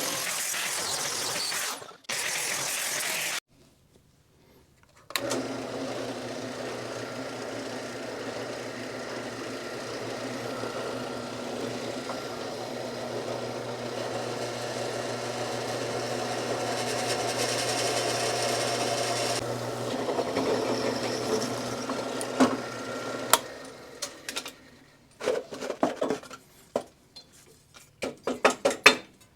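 A power tool's electric motor runs steadily on metal for about eighteen seconds, then stops. Several sharp metal knocks and clinks follow near the end. A short burst of harsh hissing noise opens the sound and cuts off after a few seconds.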